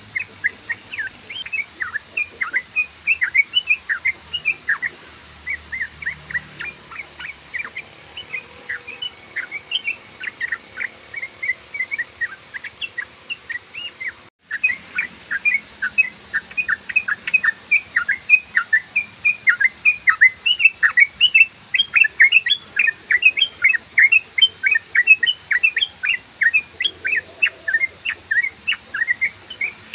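Yellow-vented bulbul singing a fast, continuous run of short chattering notes, the rolling 'ropel' song prized by keepers. There is a brief dropout about halfway through.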